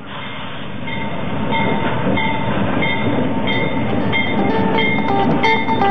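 A diesel locomotive and train pulling into a station platform, its engine and wheel noise growing louder as it nears. A short ringing tone repeats steadily about every two-thirds of a second over the rumble.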